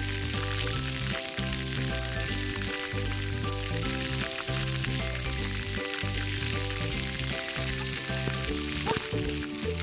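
Steady hiss of splash-pad water jets spraying, mixed with background music that has held notes and a pulsing bass line.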